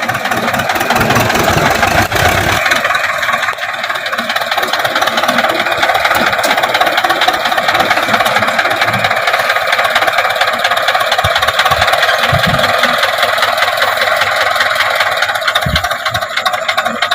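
HMT tractor's diesel engine running steadily for the whole stretch, with no break in its sound.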